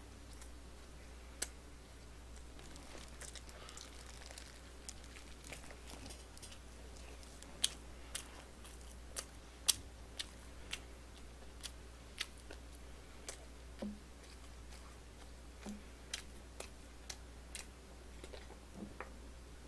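Close-miked chewing of sweet crispy fried chicken on the bone (dakgangjeong): scattered sharp clicks and small crunches throughout, over a low steady hum.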